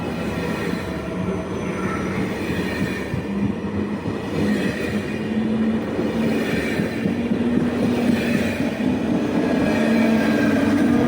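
A train running through the station, its rumble slowly getting louder, with wavering whining tones over it.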